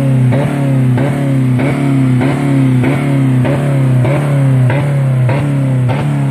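2000 Dodge Neon's four-cylinder engine held at about 4000 rpm against its rev limiter, the steady drone broken by the limiter cutting in about one and a half times a second, each cut a short crack followed by a falling sweep. The engine is running with no oil or coolant left in it.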